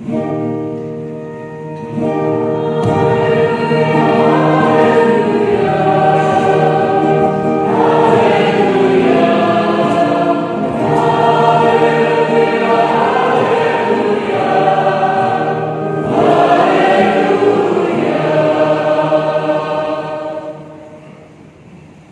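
Choir singing a Christian hymn in sustained chords, fading out near the end.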